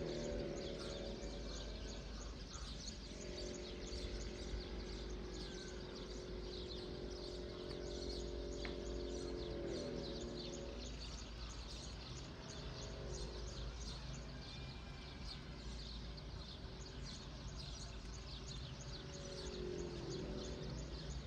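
Many small birds chirping continuously in a dawn chorus over a low steady rumble. A soft sustained chord of held tones swells in near the start, holds for several seconds, fades, and returns near the end.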